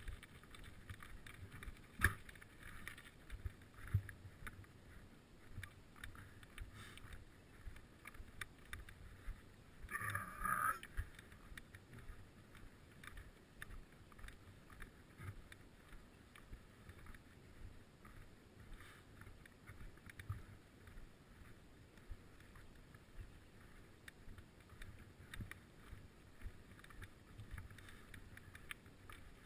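Faint noise of riding a bicycle: wind and rolling noise with scattered light knocks and rattles, a sharper knock about two seconds in, and a brief higher-pitched sound about ten seconds in.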